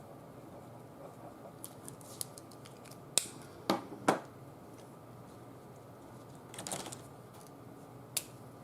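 Small desk-work noises: a few sharp clicks and taps, as of pens and paper being picked up and put down, with a brief rustle of paper.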